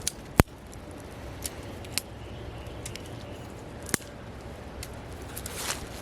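Wood fire burning in a fireplace: a steady low rumble with sharp crackles and pops from the logs, the loudest pop about half a second in and others around two and four seconds.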